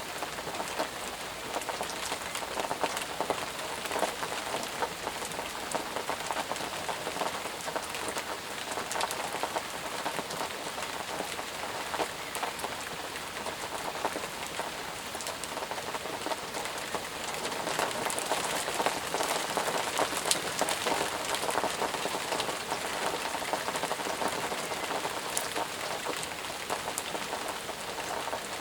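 Steady rain falling, with many separate drops pattering on a surface over the continuous hiss of the downpour.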